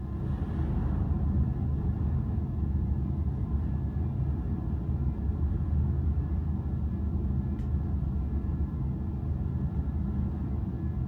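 Steady low rumble of a large car ferry under way.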